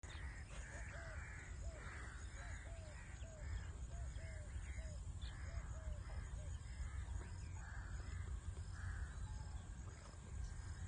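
A bird calling repeatedly with short calls, about two a second for the first six seconds or so, then only a few more, spaced out. Underneath runs a low, steady rumble.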